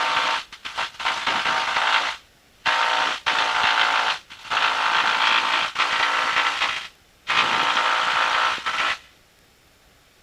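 Cessna's piston engine at run-up power heard through the cockpit intercom, the noise cutting in and out abruptly as the intercom squelch opens and closes. It cuts off about nine seconds in, leaving a faint hiss.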